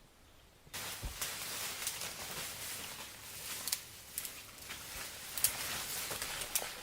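Footsteps moving through dry leaves and brush: steady rustling with scattered crackles and snaps, starting abruptly about a second in.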